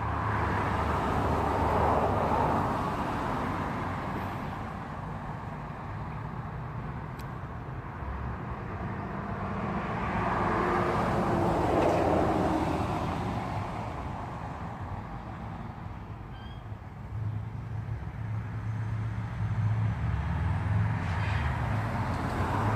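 Distant rumble of the Emirates Airbus A380's four jet engines as it goes down to land, mixed with road traffic. The noise swells twice, about two seconds in and again about eleven seconds in, and a lower hum comes in near the end.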